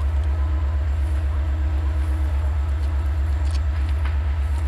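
Deep, steady, evenly pulsing throb of a diesel-hauled passenger train's engine as the train pulls away, with a few faint clicks from the rails near the end.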